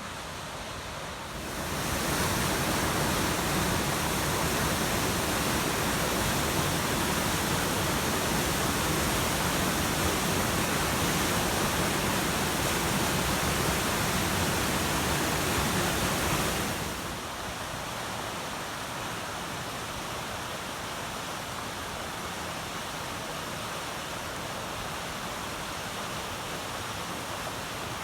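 Waterfall rushing: a steady wash of falling water with no rhythm, which gets louder about two seconds in and drops back to a softer level about sixteen seconds in.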